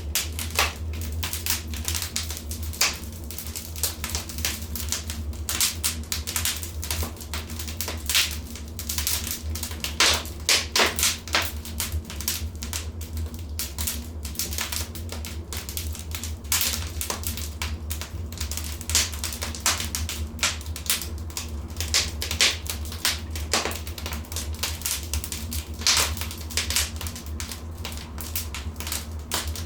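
Wood fire in a fireplace crackling, with dense, irregular pops and snaps over a steady low rumble.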